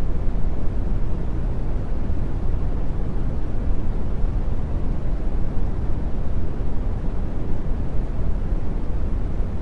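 Steady brown noise: an even, deep hiss that is strongest in the low end.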